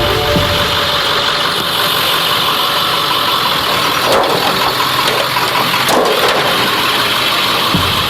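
UPS delivery truck's engine running steadily close by.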